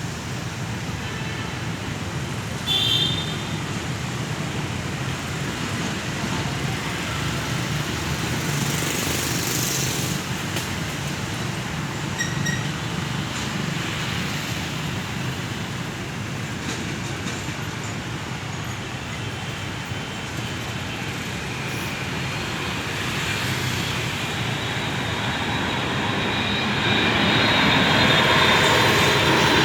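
Steady background road traffic noise, with a brief high-pitched beep about three seconds in. From about 26 seconds in, the rising sound of the Boeing 787-8's jet engines grows louder as the airliner comes in on approach.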